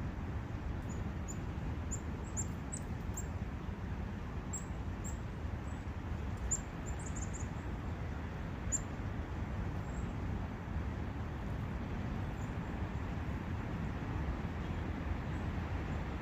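Steady rush of a forest brook, with a small bird giving short, high chirps, many of them during the first half.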